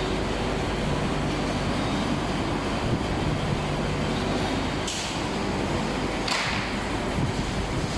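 Tractor engine running steadily while driving a three-point PTO rotary tiller, with the chain-driven rotor churning the soil. Two brief hissing surges come about five and six seconds in.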